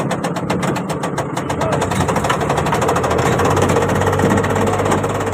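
An engine running with a fast, even rattle that fades after about two seconds into a steadier running hum.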